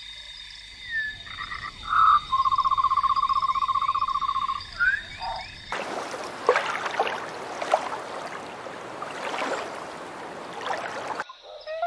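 Animal calls from two recordings. The first has a steady high tone and a few short calls, then a rapid, evenly pulsed trill of about two seconds. About halfway through, it cuts to a noisier recording with scattered short calls.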